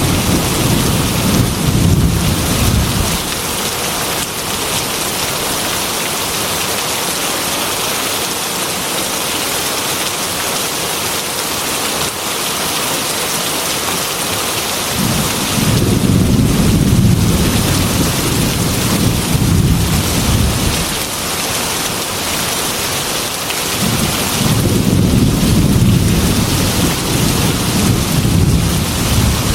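Heavy rain falling steadily, with rolling thunder rumbling underneath three times: in the first few seconds, for several seconds from about halfway through, and again near the end.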